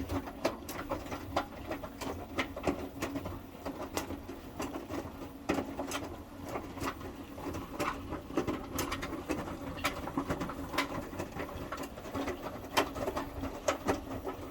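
Indesit 1400-spin washing machine in its wash cycle: the drum motor runs with a steady hum as the drum turns, under an irregular patter of clicks and knocks from the tumbling load and moving parts.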